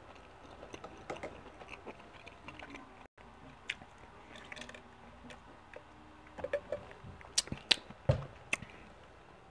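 A man chewing a mouthful of pizza: soft mouth clicks and smacks, louder and more frequent in the last few seconds.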